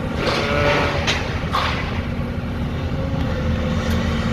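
An engine running with a steady low rumble and hum, with a few brief noisier sounds in the first couple of seconds.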